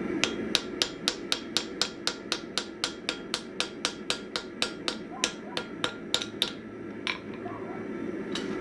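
Hand hammer striking the 1045 steel axe head on the anvil in a quick, even run of about three to four light blows a second, stopping about six and a half seconds in and followed by a couple of single strikes. A steady low rush runs underneath.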